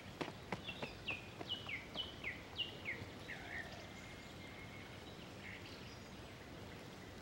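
A songbird singing a quick run of whistled notes, each falling in pitch, then one held whistle. Light running footsteps fade out about a second in.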